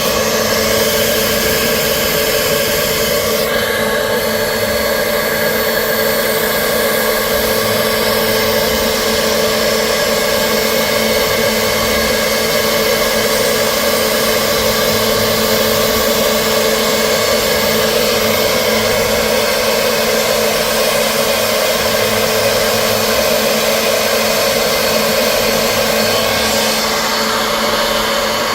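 CNC milling machine running: a steady, loud hum with several fixed tones over a hiss. The higher hiss shifts about three and a half seconds in and again near the end.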